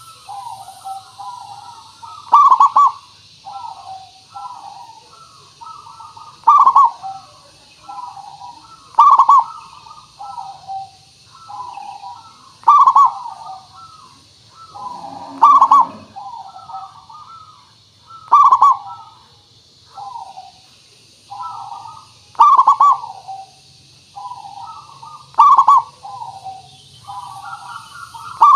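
Zebra dove (perkutut) cooing song: repeated rolling coo phrases, a loud accented call about every 2 to 3 seconds with softer trilled coos between, used as a lure call. A steady high hiss sits underneath.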